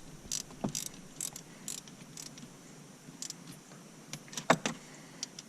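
Hand tool tightening the shifter's mounting bolts, light metallic clicks about two a second, then sparser. A sharper knock comes about four and a half seconds in.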